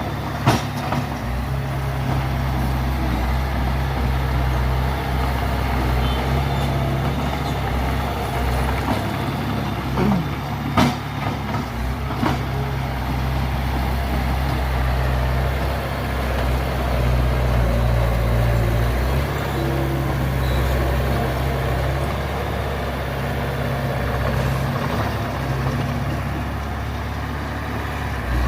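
Diesel engines of heavy earthmoving machinery running steadily under load. There are a few sharp clanks: one just after the start, and three more around ten to twelve seconds in.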